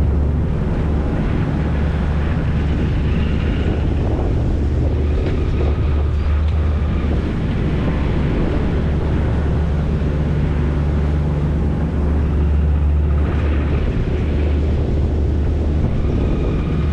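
Volvo Penta D3 110 hp inboard diesel of a Dufour 520 Grand Large sailing yacht running under way at about 2,900 rpm, near maximum, for a full-throttle test. It is a steady, loud, low hum that holds an even pitch.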